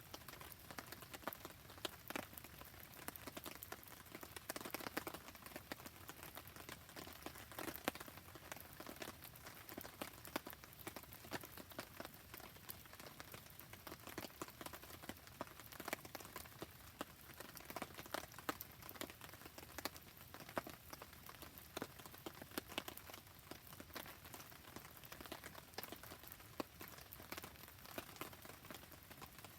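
Steady rain pattering together with a wood campfire crackling, a dense run of small irregular ticks and pops.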